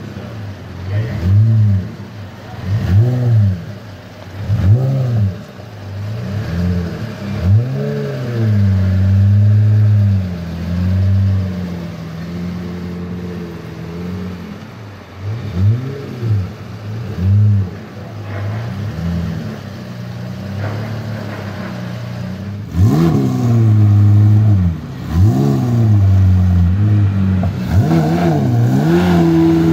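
Pagani Zonda 760 VR Roadster's 7.3-litre AMG V12 revved again and again in quick blips that climb and drop back, with spells of steady raised-rpm running between the blips.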